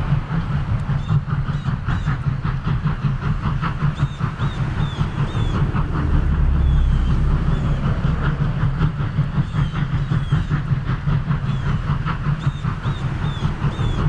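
Southern Railway No. 4501, a 2-8-2 Mikado steam locomotive, running past at speed with its passenger train: rapid exhaust beats and wheels clattering on the rails, the low rumble swelling for a few seconds midway.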